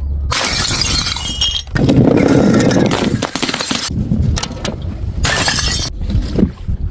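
Glass bottles breaking and shattering, with crunching and clinking shards, in several separate loud stretches that start and stop abruptly.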